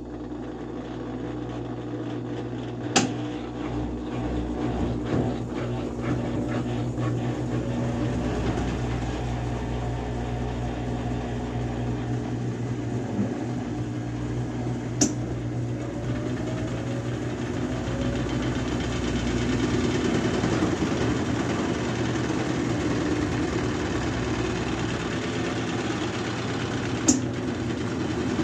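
Brastemp Ative BWG11A 11 kg washing machine in its spin cycle: a steady mechanical hum that gradually gets louder, with a sharp click about every twelve seconds.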